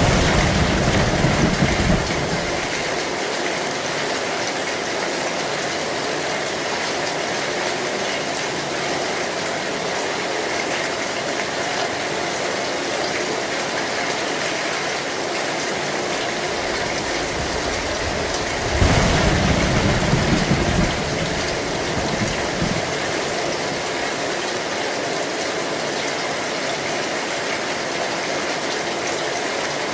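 Heavy rain drumming steadily on an old tin (zinc) roof, with two short low rumbles of thunder, one at the start and one about 19 seconds in.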